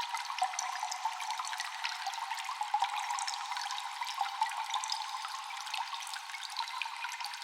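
Water dripping constantly in a cave: many small echoing drops, several a second, over a steady trickling hiss, with a couple of louder drops about three seconds in.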